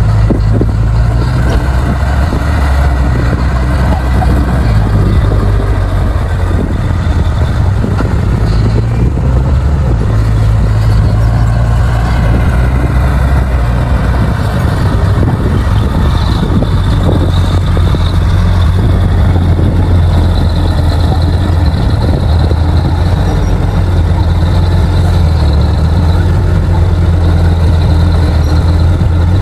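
A D60 crawler bulldozer's diesel engine running loud and steady under load, its low drone shifting slightly in pitch now and then as it works the soil.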